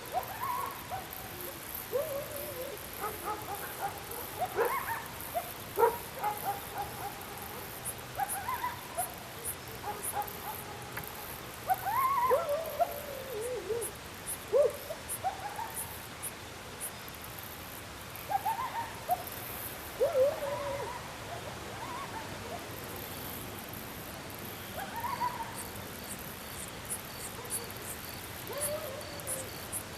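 Dogs whining and yelping in short high calls that rise and fall in pitch, coming irregularly throughout, with crickets chirping in the background.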